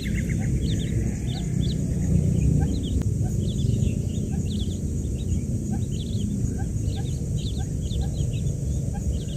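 Newly hatched quail chicks peeping: many short, high chirps, several a second, over a steady low rumble.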